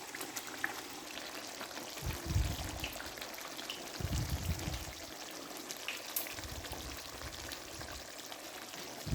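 Chicken masala simmering in ghee in a pan, sizzling and bubbling steadily as the gravy cooks down to the point where the clarified butter separates out. A few brief low rumbles come about two, four and seven seconds in.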